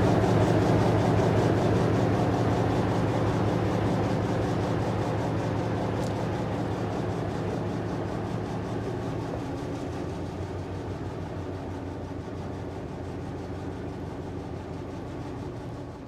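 Model train locomotive running on the track with a steady motor hum, getting gradually quieter.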